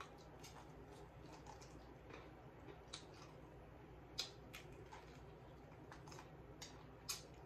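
Quiet chewing of crispy fried chicken: a handful of short, scattered crunches and mouth clicks over a low steady hum.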